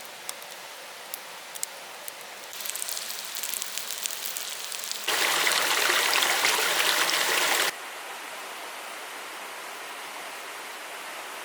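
Mountain stream flowing as a steady rush of water. It jumps abruptly louder for about two and a half seconds in the middle, with a few clicks and crackles in the first few seconds.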